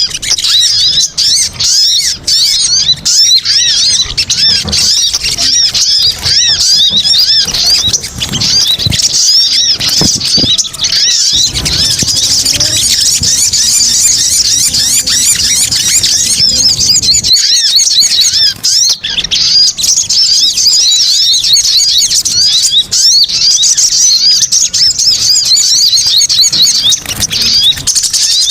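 Recorded calls of sogon, the sogok ontong sunbird, played as a trapping lure: a dense, unbroken stream of rapid, high-pitched chirps and squeaky chatter from several birds at once.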